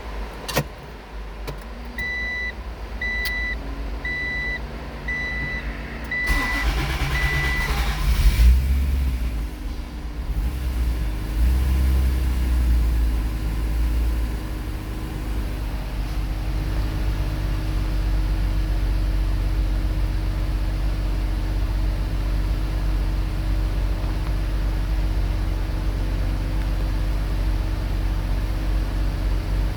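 An electronic chime beeps six times. Then the NSX's 3.6-litre stroker V6 cranks and catches about eight seconds in, with a brief flare of revs. It settles into a steady idle on its first start after the rebuild.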